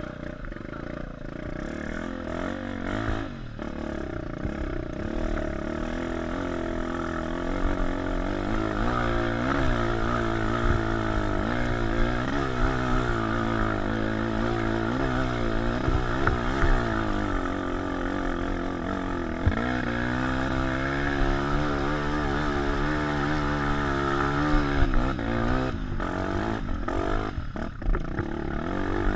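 Single-cylinder four-stroke trail motorcycle engine riding along, its pitch rising and falling again and again as the throttle is opened and closed. It grows louder over the first several seconds.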